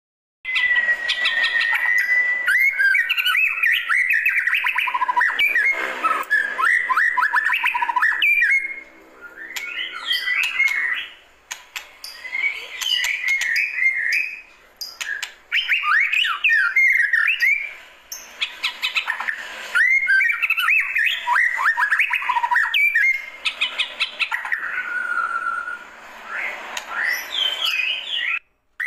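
White-rumped shama singing: varied phrases of clear gliding whistles and rapid runs of notes, separated by short pauses. The song opens with one long steady whistle.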